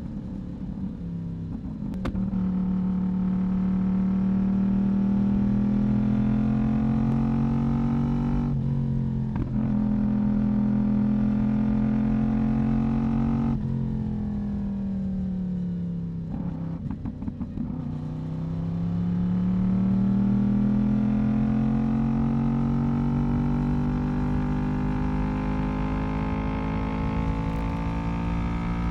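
Yamaha YZF-R1 sport bike's inline-four engine and exhaust under way, the engine note mostly holding steady at cruising revs. The note drops a few times, falls lowest a little past the middle, then climbs back up and holds.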